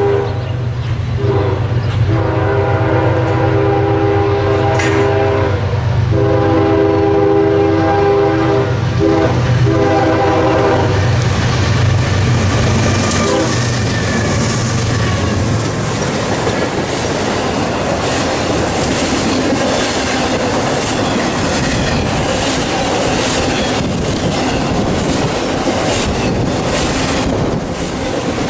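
Diesel locomotive horn sounding a chord in several blasts, a long one in the middle, over the rumble of the engine. The horn stops about eleven seconds in and the train rolls past, its cars rattling with steady wheel clatter on the rail joints.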